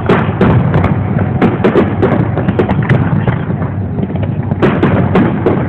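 Aerial firework shells bursting during a fireworks display: many sharp bangs and crackles in quick succession over a continuous rumble.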